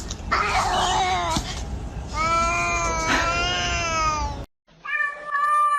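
Domestic cats meowing and yowling: a rough call early on, then one long drawn-out yowl of about two seconds with a wavering pitch that cuts off suddenly, and another meow near the end.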